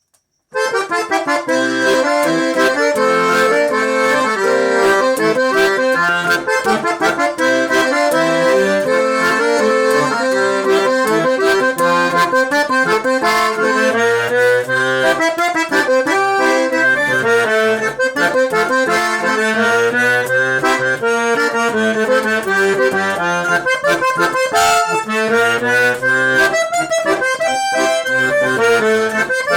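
Accordion (sanfona) playing a lively traditional tune, with melody and chords over bass notes. It starts about half a second in.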